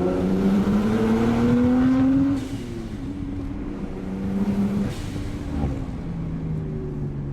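Straight-piped RB20 turbocharged inline-six in an R32 Skyline GTST accelerating, its pitch climbing steadily. About two seconds in the throttle lifts, and the engine falls back to a lower, quieter steady drone.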